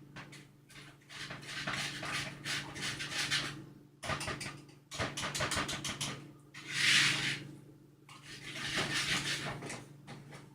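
Kitchen utensils clattering and scraping against a mixing bowl in irregular bursts, with a quick run of strokes about halfway through, over a steady low hum.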